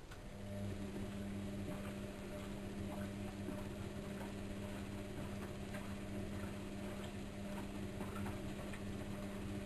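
Bauknecht WAK7760 front-loading washing machine's motor turning the drum in a wash tumble on a 40 °C coloureds programme. It is a steady hum that starts just after the beginning, with light irregular clicks from the drum.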